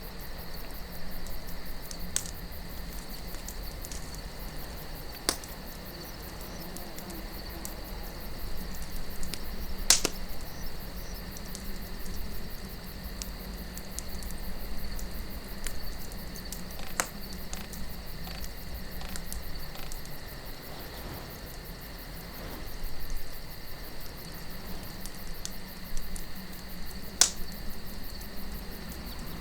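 Campfire crackling with a few sharp pops from the burning wood, the loudest about ten seconds in, over a low wind hush and a steady background of crickets chirping.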